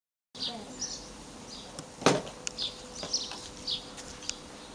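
A small bird calling outdoors: short high chirps that slide down in pitch, repeating about once a second. One loud bump about two seconds in.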